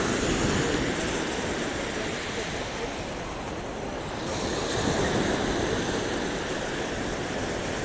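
Ocean surf: waves breaking and washing up the beach, swelling in loudness twice.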